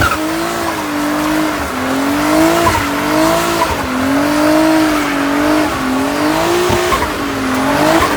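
A car engine held at high revs during a burnout, its pitch wavering up and down every second or so, with the spinning tyres squealing.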